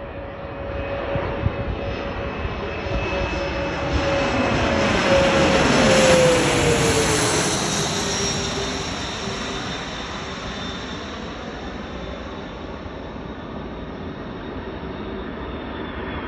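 Bombardier CRJ-200LR regional jet passing by on its twin rear-mounted GE CF34 turbofans. The jet noise builds to its loudest about six seconds in, with a whining tone that drops in pitch as the aircraft goes past, then slowly fades.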